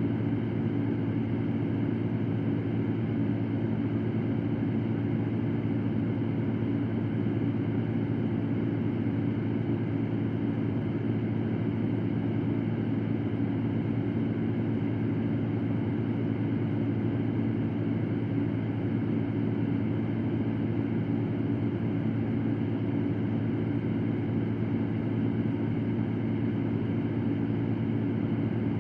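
Electric fan running steadily: an even rush of air over a low, unchanging hum.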